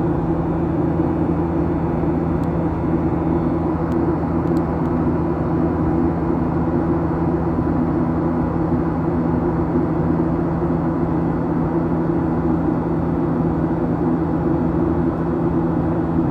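Steady drone inside the cabin of a Boeing 737-800 jetliner in flight: engine and airflow noise with a constant low hum.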